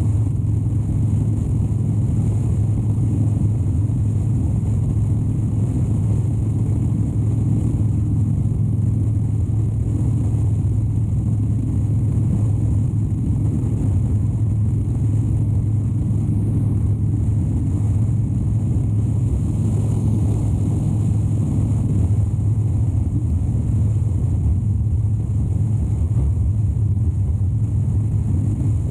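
2013 Harley-Davidson Dyna Wide Glide's 103-cubic-inch V-twin engine running steadily as the motorcycle is ridden along the road, with no change in engine speed.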